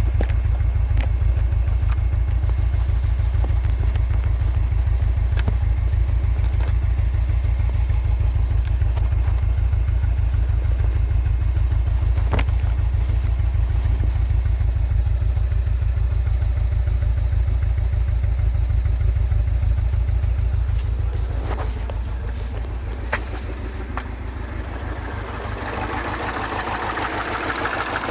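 Mini Cooper engine idling, a steady low pulsing with occasional light clicks. About 21 s in it gets quieter, and near the end a steady hiss rises over it.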